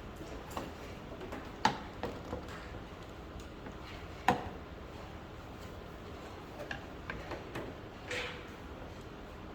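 A few irregular clicks and light knocks, two of them sharper, about a second and a half and four seconds in, over faint steady background noise.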